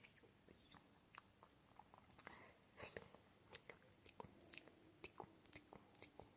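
Close-miked ASMR mouth sounds: quiet, irregular tongue and lip clicks and smacks, a few each second.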